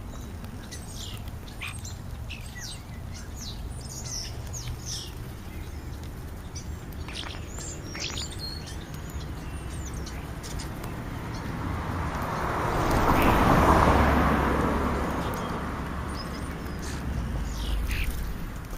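Birds chirping and calling in short, scattered notes throughout. A broad rushing noise swells, peaks about two-thirds of the way in, then fades, like something passing by.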